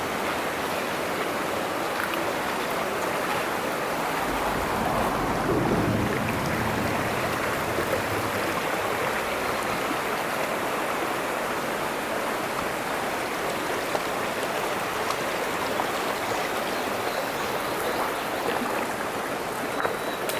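Mountain stream running steadily, with a louder, deeper rush for a few seconds about four seconds in and a few light knocks later on.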